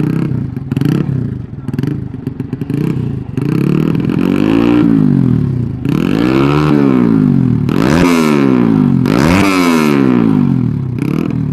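Tuned 'sleep engine' motorcycle engine running on its first setting: it idles unevenly for about three seconds, then is revved hard four or five times, the pitch climbing and falling with each rev.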